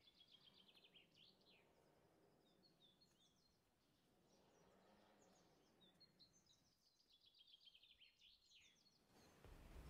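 Near silence with faint bird chirps and quick trills, heard in two clusters; a faint low rumble comes in near the end.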